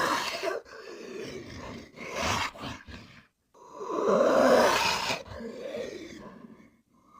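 Made-up creature sound effect for Megalania, the extinct giant monitor lizard: a rough growl, then about three and a half seconds in a long, loud roar that slowly fades.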